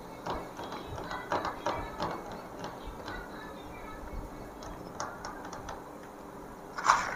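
Crunchy honey-roasted peanuts being chewed with the mouth closed, close to a clip-on microphone: scattered small crackles, with a couple of louder crackles near the end.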